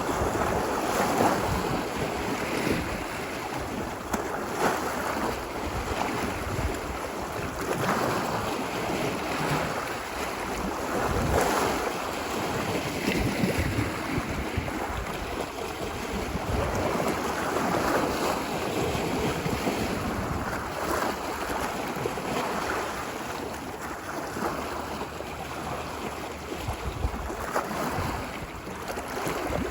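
Ocean surf washing ashore, a continuous wash rising and falling in slow swells every few seconds, with low rumble that sounds like wind on the microphone.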